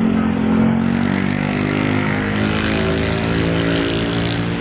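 A truck's engine running as it passes on the road: a steady, loud engine hum whose pitch drifts slightly, over road noise.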